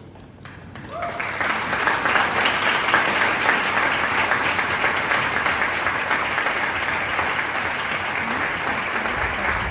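An audience applauding, the clapping breaking out about a second in and holding steady, with a voice or two calling out over it.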